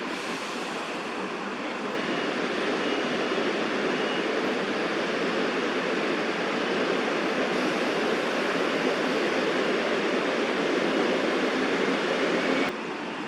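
Steady rushing noise of distant traffic, rising a little about two seconds in and dropping abruptly near the end.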